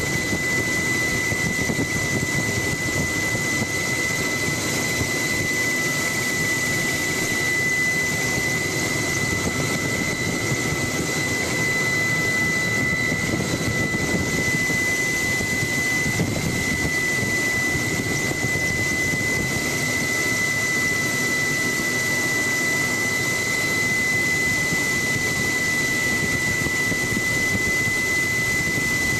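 Helicopter in flight heard from on board: a steady rush of engine and rotor noise with a constant high whine.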